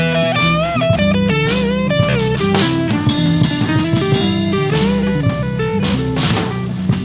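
Band playing an instrumental break: electric guitar lead with bent notes over bass guitar and drums.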